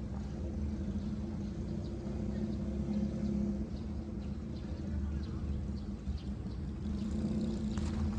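An engine running steadily with a low hum that swells slightly now and then.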